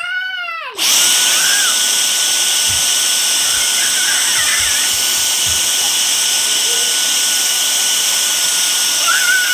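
Vacuum cleaner switched on about a second in, then running steadily with a high whine, with a few low bumps from the hoover moving.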